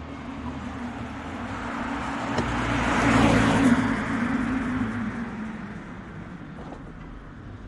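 A vehicle passing by: its noise swells to a peak about three seconds in and then fades away.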